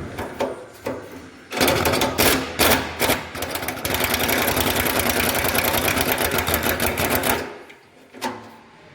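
Pneumatic wrench rattling in one continuous run of about six seconds, from about a second and a half in to near the end, as it undoes a bolt on a rear anti-roll bar bushing bracket. There are a few sharper strokes near its start, and single metallic clicks of tools before and after.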